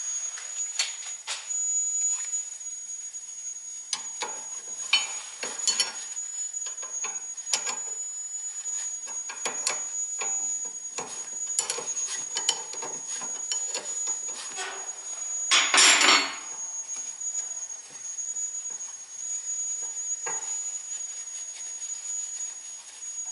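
Metal hand tools clinking and knocking irregularly during work on the car, with a short hiss about two-thirds of the way through.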